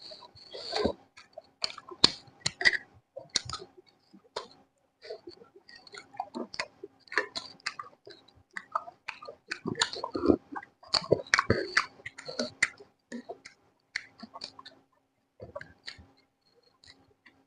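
A person eating close to the microphone: irregular chewing with wet mouth clicks and smacks, coming in clusters with short pauses between.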